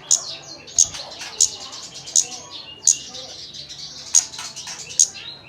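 Kemade songbird call used as lure audio to prompt an untrained bird to sing: sharp, high chirps repeating about every 0.7 s over a busy, continuous twittering chatter.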